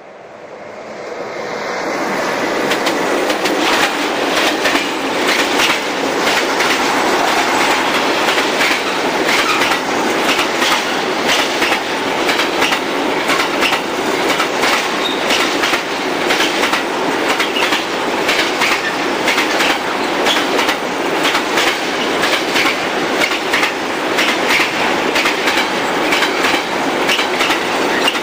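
Freight train of tank wagons passing close by. It swells over the first couple of seconds as it arrives, then runs on steadily, with the wheels clattering in a quick rhythm over the rail joints.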